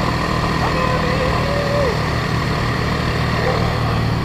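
Motorbike engine running steadily while it climbs a steep hill, over a constant rushing noise.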